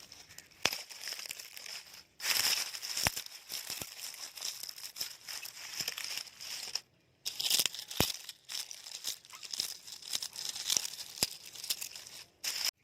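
Crinkling, rustling noise broken by a few sharp clicks, with two brief pauses; no calls or talking.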